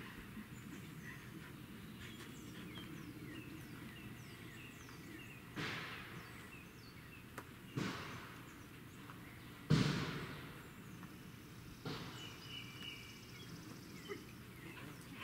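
Small birds chirping in the surrounding trees, short high chirps throughout. Three sudden loud sounds about two seconds apart break in midway, the last and loudest about ten seconds in.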